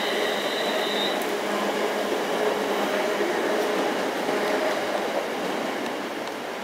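Multi-car passenger multiple-unit train running past along the platform and away, a steady rolling rumble of wheels on rail that fades near the end. A thin high whine stops about a second in.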